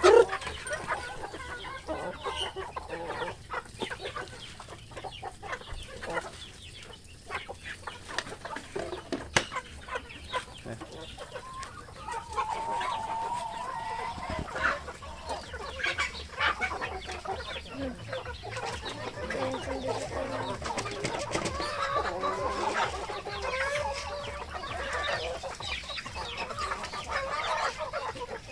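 Native chickens clucking, several birds calling over one another in short calls, growing busier about halfway through.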